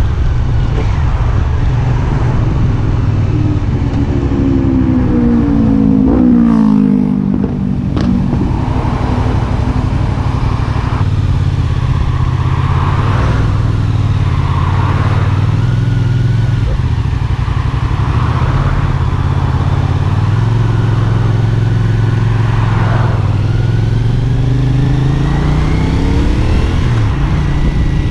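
CFMoto 450SR S parallel-twin engine running as the bike is ridden, its pitch rising and falling with throttle and gear changes.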